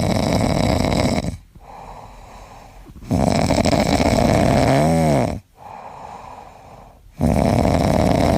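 An animal snoring loudly, three long snores about four seconds apart with quieter breaths between. The second snore ends in a brief whistle that rises and falls in pitch.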